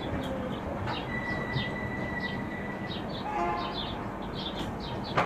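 Gatimaan Express passenger train running out of a station, a steady rolling rumble heard beside the coach. Birds chirp repeatedly over it.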